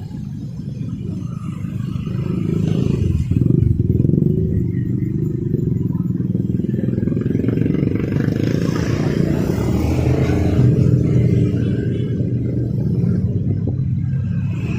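Street traffic: motorbike and car engines running past steadily, with one vehicle passing close around the middle, its noise swelling and fading.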